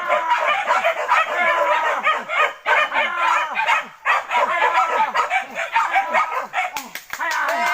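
A pack of hunting dogs barking and yelping without a break, many voices overlapping, with a short lull and a few sharp clicks about seven seconds in.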